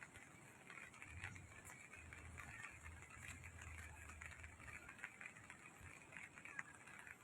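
Near silence: faint background noise with a soft low hum in the middle and light scattered crackle.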